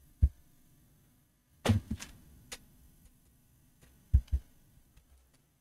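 Light clicks and knocks from hands handling a laptop's plastic case near the hinge: one about a quarter second in, a small cluster around two seconds, and two close together about four seconds in.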